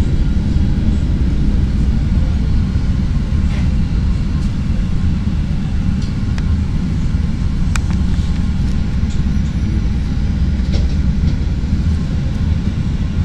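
Chicago 'L' rapid-transit train heard from inside the car, running along the elevated track with a steady low rumble and a few sharp clicks of the wheels on the rails, easing off as it comes up to a station platform.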